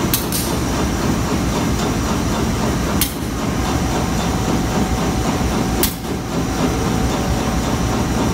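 Steady low rumble of a passenger train standing at the station platform, broken by a few sharp clicks: one near the start, one about three seconds in and one near six seconds.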